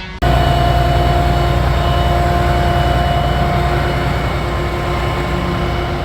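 Heavy vehicle engine running steadily: a low rumble with a steady whine above it.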